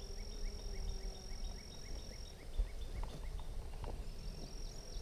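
Faint outdoor ambience: a repeated short chirping call, about three chirps a second, fading out about halfway through, over a low wind rumble and a faint steady high-pitched tone.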